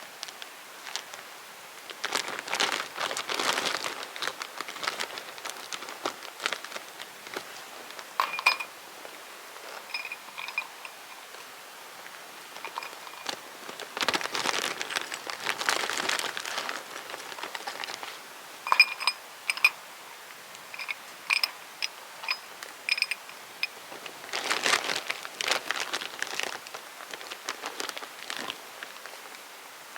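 Wood campfire crackling, with dense runs of snapping crackle every several seconds and sharp single pops between.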